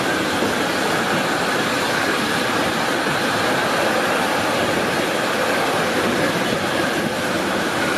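Freight train of enclosed double-deck car-transporter wagons rolling past close by: a loud, steady rumble and rattle of steel wheels on the rails.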